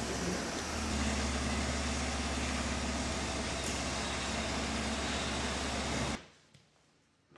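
Minivan engine running steadily with a low hum as the van drives off. The sound cuts off abruptly near the end.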